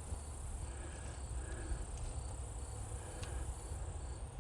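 Crickets and other insects chirping steadily in a repeating pulse, over a faint low rumble, with an occasional light click.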